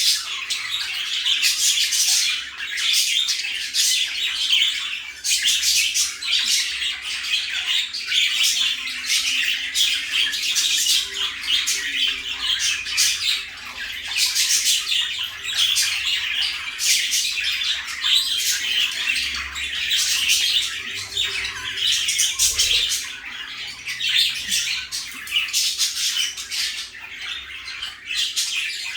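Several pet budgerigars (parakeets) chattering continuously, a dense run of short chirps and squawks.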